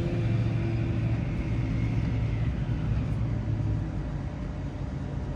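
A steady low mechanical hum with a rumble under it, from a running engine or motor.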